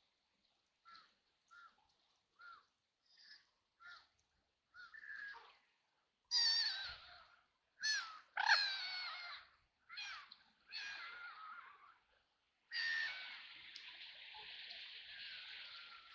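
White ducks quacking. First comes a run of short, faint quacks, then louder, harsh quacks from about six seconds in, and near the end a longer unbroken stretch of raspy calling.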